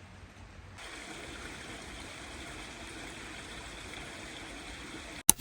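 Steady rushing noise like running water or outdoor ambience. It changes abruptly about a second in and ends with a sharp click near the end.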